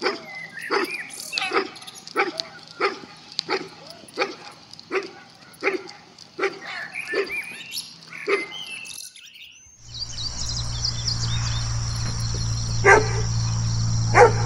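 A dog barking over and over, about one and a half barks a second, with birds chirping behind. The barking stops about nine seconds in. After a short gap a steady low hum and chirping come in, with two more barks near the end.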